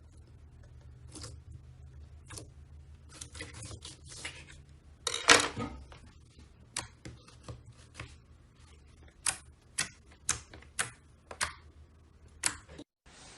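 Slime being squeezed and pressed by hand, with sharp popping clicks as air pockets burst. There is a loud crackly burst of pops about five seconds in, and a run of single, evenly spaced pops near the end.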